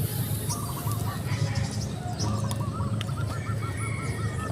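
A bird calling: a short call, then a rapid run of repeated notes that trail off, over a steady low hum.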